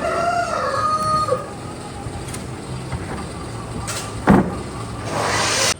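A rooster crows once, a pitched call lasting about a second and a half. About four seconds in there is a sharp knock, then a hissing noise that stops abruptly near the end.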